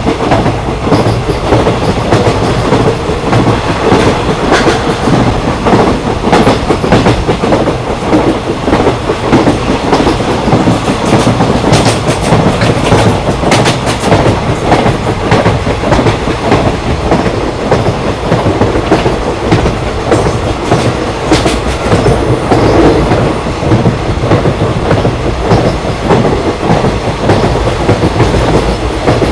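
Train running along the track: a steady rumble with the wheels clacking over rail joints, and a few sharper clacks around the middle.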